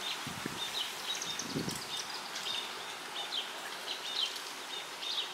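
Birds chirping, repeated short high chirps every half second or so over a steady outdoor hiss, with two soft low thuds in the first two seconds.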